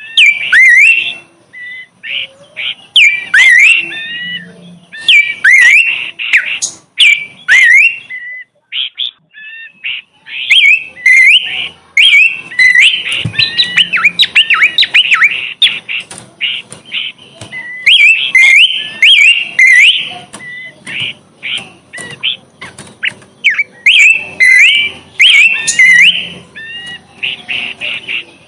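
Small songbird singing loudly in quick runs of chirps and twittering, sweeping notes, with a pause of about two seconds around eight seconds in.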